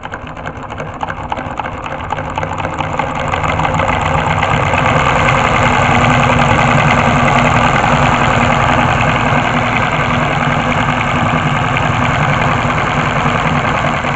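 Homemade four-cylinder solenoid engine running, its solenoids and reciprocating linkage clacking in a rapid, engine-like patter. It grows louder over the first four seconds, then holds steady.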